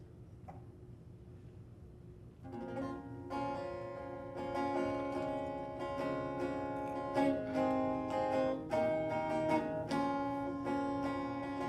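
About two and a half seconds of low room tone, then a plucked string instrument starts an instrumental introduction to a folk song, ringing notes growing louder.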